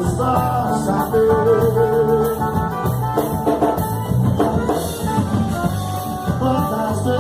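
Live band music with drums, bass and held melodic notes.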